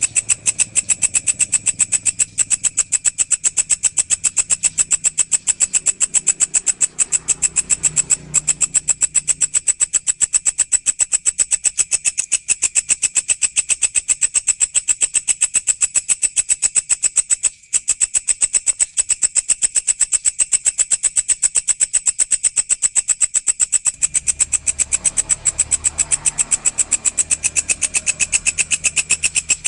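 Walang insect calling: a rapid, steady train of sharp, high-pitched chirping pulses, with one brief break about midway.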